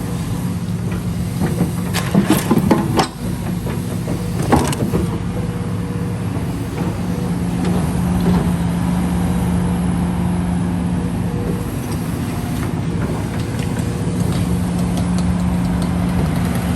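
Heavy earth-moving machine's engine running steadily while dredging, with a cluster of metallic clanks about two to three seconds in and another near four and a half seconds.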